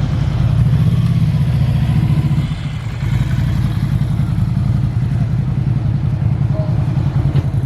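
A car engine running close by, a steady low rumble with an even pulse that dips briefly a few seconds in.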